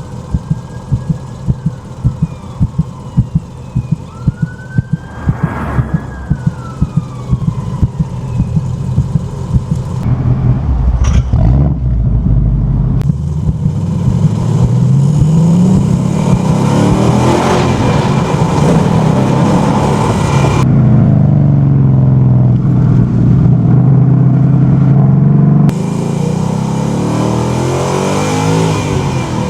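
An ambulance siren wails, rising and falling, for the first several seconds over the low rumble of a Ford Mustang Bullitt's V8. From about halfway through, the V8 revs up again and again with rising pitch as the car accelerates hard through the gears.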